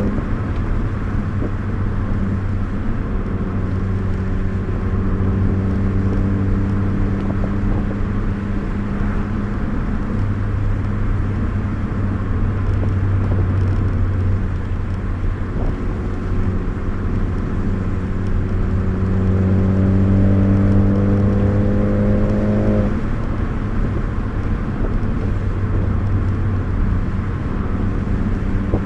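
Car engine and road noise heard from inside the cabin while driving. The engine holds a steady note, then revs climb for a few seconds before dropping suddenly about 23 seconds in, as at a gear change or lift-off.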